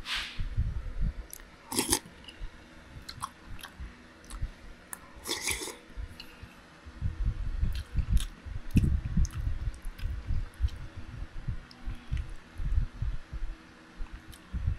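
Close-up chewing of a mouthful of chicken soup and rice, irregular and wet, with a couple of sharp clinks of a metal spoon against the ceramic bowl.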